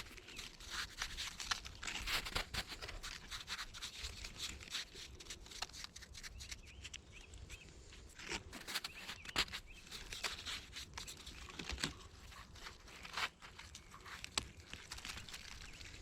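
Irregular rustling and crinkling handling noises with many small sharp clicks.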